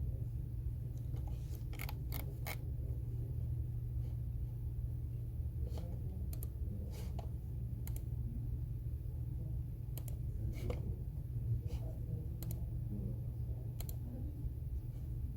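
Computer keyboard keys clicking in short, irregular spurts, a dozen or so keystrokes with pauses between them, over a steady low hum.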